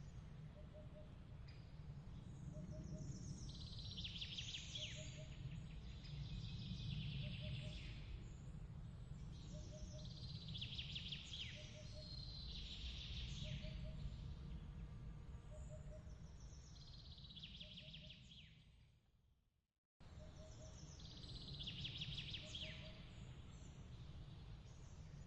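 Birds chirping in bursts over a steady low rumble, with a soft short double note repeating about once a second. Near the end the whole ambience fades out to silence and then starts again abruptly, like a loop restarting.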